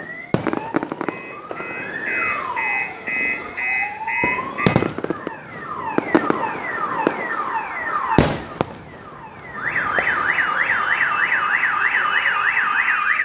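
Car alarms going off, cycling through their patterns: slow rising and falling sweeps, a run of pulsing beeps, then a fast warble from about ten seconds in. Fireworks bang over them, with two loud, sharp reports about a third and two-thirds of the way through.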